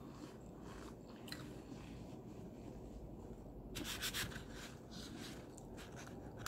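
Close-up chewing with the mouth closed: soft, faint mouth clicks and smacks, with a short louder patch of crackly chewing about four seconds in.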